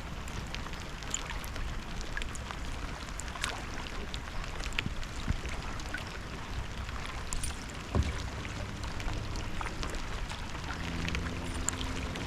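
Rain falling on the lake and the kayak: a steady hiss with many scattered sharp drop ticks. One low knock about eight seconds in.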